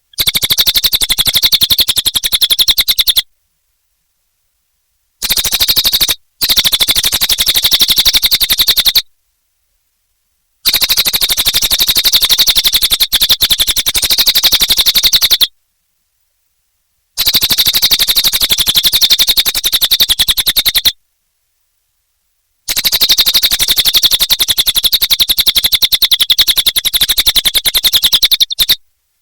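A cililin bird singing in repeated bouts of rapid, high-pitched trills, each lasting a few seconds, with short silent breaks between them.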